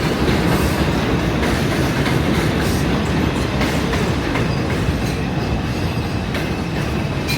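New York City subway train running on the rails: a loud, steady rumble with a dense run of short clattering knocks.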